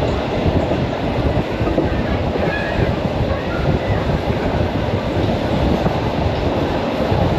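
Suburban electric multiple-unit train running at speed, heard from inside a carriage: a steady rumble of wheels on rails.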